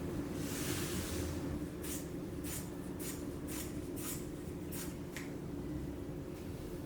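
Scissors snipping through 3K twill-weave carbon fibre cloth: a brief rustle of the cloth, then about seven short, crisp snips roughly half a second apart.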